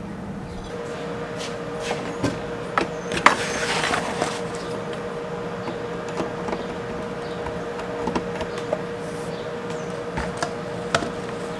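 Hand tools clinking and knocking against metal parts during a repair of a riding mower's deck lift linkage, with scattered sharp clicks over a steady hum.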